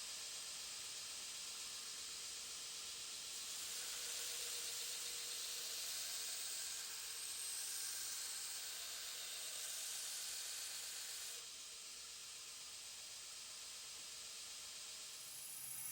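Steady hissing noise with no clear tone or rhythm, stepping slightly louder a few seconds in and quieter again about two-thirds of the way through.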